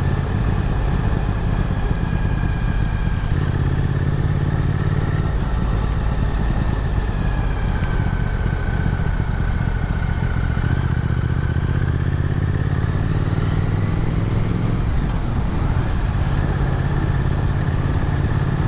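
Motorcycle engine running steadily under way, with a dense low rumble beneath it; about halfway through its pitch sags and then climbs back up as the speed changes.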